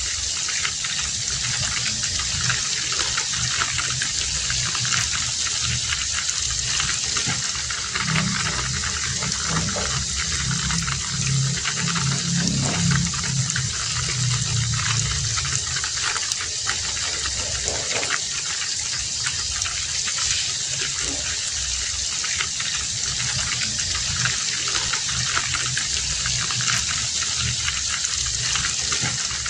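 Heavy rain falling steadily, with a dense hiss of drops. Under it is a low, uneven rumble that swells between about 8 and 15 seconds in.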